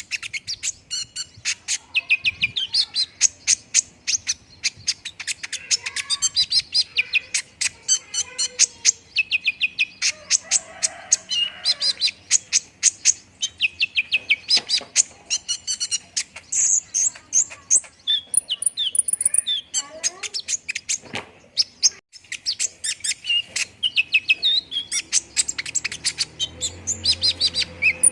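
Kolibri ninja sunbird singing a long, fast run of high, sharp chirps and trills, the kind of song used as a lure recording to get a caged bird singing.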